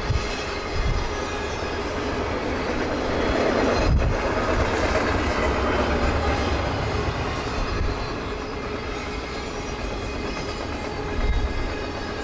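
Railroad cars rolling past on the rails, a continuous rumble of wheels with some clickety-clack, swelling about three seconds in and easing after about seven, with a few short low thumps.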